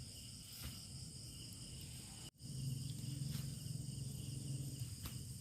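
Night chorus of crickets and other insects, a steady high-pitched trilling with a few faint clicks. About two seconds in the sound cuts out for an instant, then a low hum rises under the insects for a couple of seconds.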